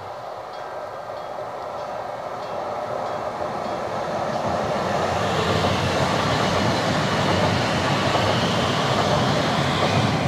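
Suburban passenger train approaching on the rails, its running noise growing louder over about five seconds, then staying loud and steady as it passes close by.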